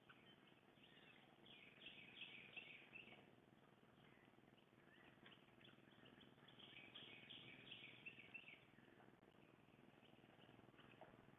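Faint songbird chirping in two bouts of rapid twittering notes, about two seconds in and again past the middle, over a steady outdoor hiss.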